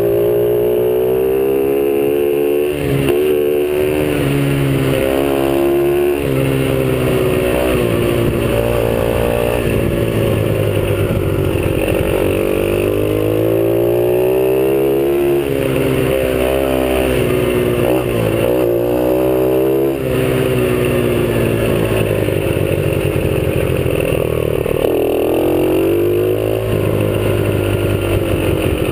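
A 50cc dirt bike engine, heard from a rider-mounted camera, revving up and dropping back over and over as the bike is ridden, its pitch climbing and falling every few seconds.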